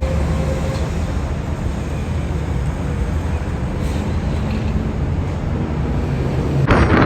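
A large car ferry's engines run at the dock as a steady low rumble. About seven seconds in, wind starts buffeting the microphone.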